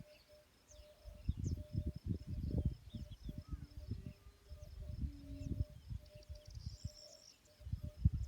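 Outdoor nature ambience: small birds chirping and an evenly pulsing insect-like call repeating about twice a second, over irregular low rumbles. A longer, higher bird call comes near the end.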